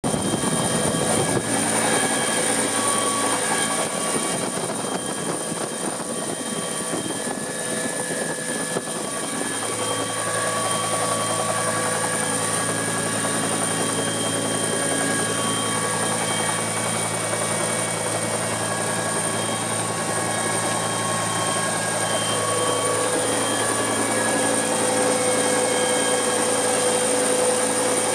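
Helicopter running steadily in flight: a continuous engine and rotor drone with a constant high-pitched turbine whine, a low hum becoming stronger about ten seconds in.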